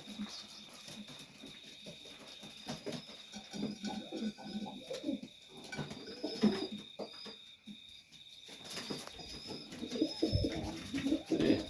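Serbian highflyer pigeons cooing, several low coos overlapping on and off, with a few short high chirps in the middle.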